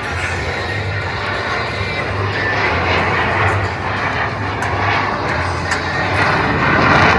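Loud, steady jet noise from the Thunderbirds' F-16 fighter jets flying their display, growing louder near the end.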